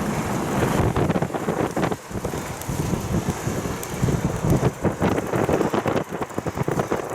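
Gusting wind buffeting the microphone while cycling, a loud uneven rumble with frequent small knocks and rattles.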